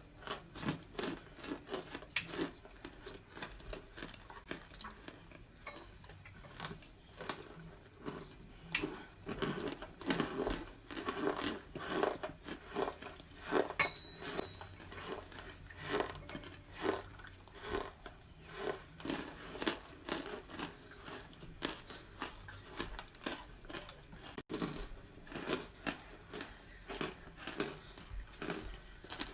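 Crunching of microwave-baked cornstarch chunks as they are bitten and chewed: many irregular crisp crunches, with a few sharper clicks.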